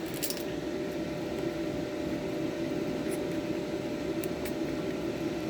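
Garlic and ginger puree frying in hot oil in a saucepan: a steady sizzle with a few faint pops, over a faint steady hum.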